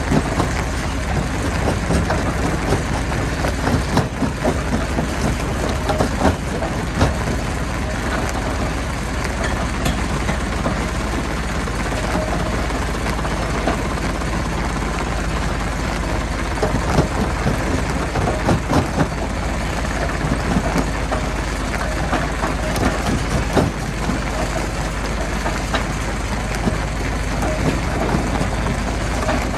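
Heavy diesel machinery running steadily at a rock crusher, with scattered knocks and clatter throughout.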